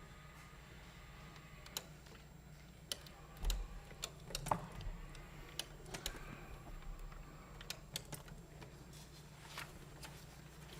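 Faint scattered clicks and light knocks over a low steady hum, with a few louder thumps about three and a half to five seconds in: footsteps and handling noise at a podium microphone.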